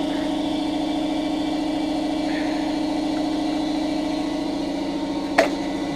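Air compressor motor running with a steady hum. A single sharp click sounds near the end as a part comes free.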